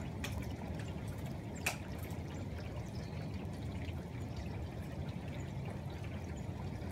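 Steady rain with water pouring and trickling, and a few sharp drip ticks, the clearest about two seconds in.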